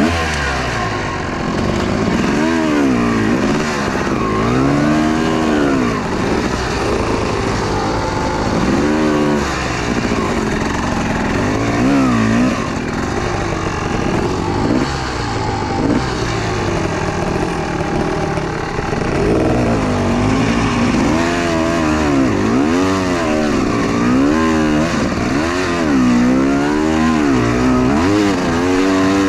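Two-stroke enduro motorcycle engine revving up and down over and over, its pitch rising and falling every second or two, with the revving coming thicker near the end.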